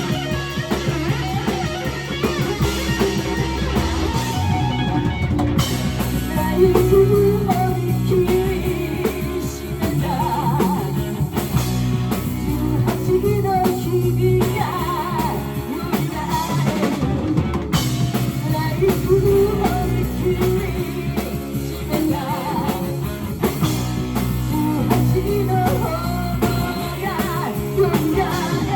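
Live rock band playing, with electric guitar, bass and drum kit, and a sung melody over it.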